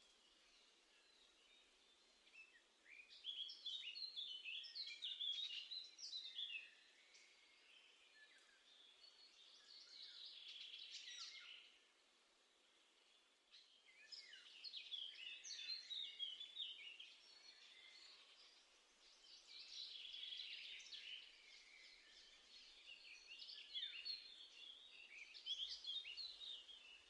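Small garden songbirds singing and calling: bursts of quick, high twittering phrases a few seconds long, about five times, with quieter gaps between.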